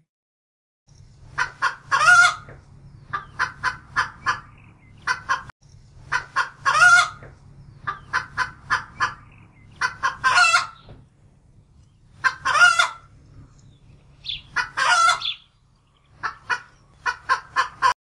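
Hens clucking in repeated runs of short clucks, each run ending in a longer drawn-out cackle, over a low steady hum.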